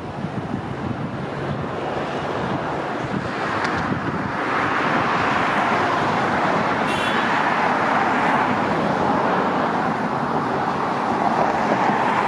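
Steady road and traffic noise, like a car moving along city streets, growing louder about four seconds in and holding steady.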